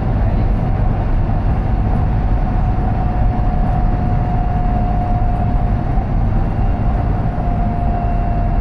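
High-speed train running, heard inside the passenger cabin: a steady low rumble and rush, with a single whine that sinks slightly in pitch over the few seconds.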